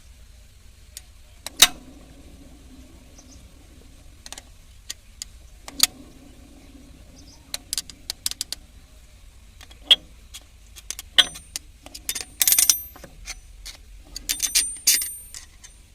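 Metal tools and parts knocking and clinking, scattered at first, then more frequent, with a couple of longer ringing jangles near the end.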